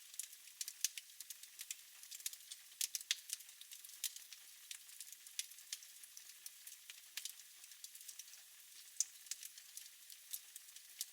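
Fire crackling in a fireplace: irregular sharp pops and snaps, several a second, over a soft steady hiss.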